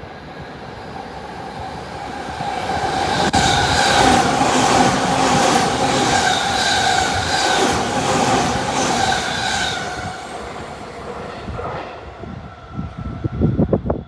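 Electric limited express train going by at a station platform, swelling to a peak and fading, with a steady whine over the rumble and wheels clacking over rail joints. A few sharp low thumps near the end.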